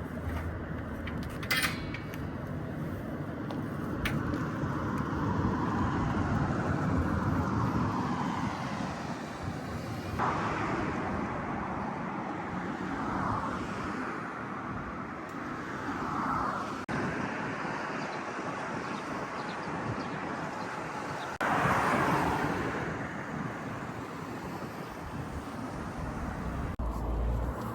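Road traffic noise outdoors, a steady rush of passing vehicles that changes abruptly several times.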